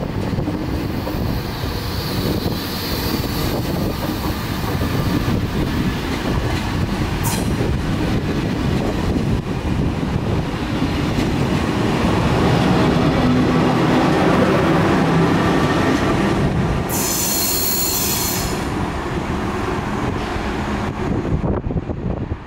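SNCF TGV Duplex double-deck high-speed train pulling out and gathering speed, its cars rolling past with a heavy rumble and clatter on the rails that grows louder in the middle. About three-quarters of the way through, a loud, high wheel squeal lasts a second or two.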